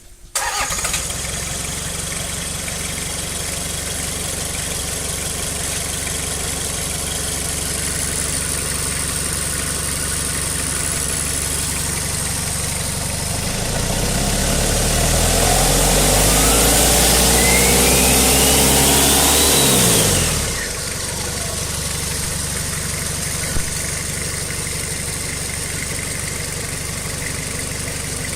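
Toyota 3L turbo diesel engine, a four-cylinder, starting and then idling steadily. About halfway through it revs up for several seconds with a rising whine from the turbo, then drops quickly back to idle.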